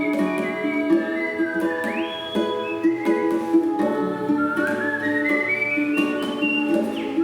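Requinto guitar playing plucked notes under a whistled melody, whose high notes glide and climb step by step.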